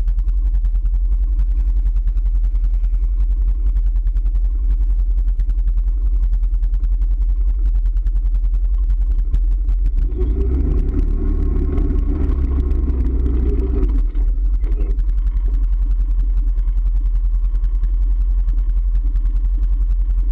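A vehicle engine runs steadily in a ride-along, with a louder surge from about ten to fourteen seconds in.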